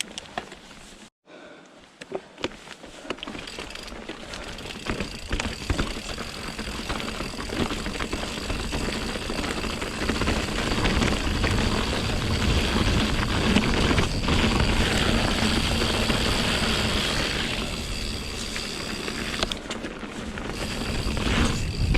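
Mountain bike on Pirelli Scorpion tyres riding rough, wet singletrack: tyre rolling noise and wind buffeting the microphone, with many sharp knocks and rattles as the bike goes over rocks and roots. It gets louder as speed builds, after a brief near-silent gap about a second in.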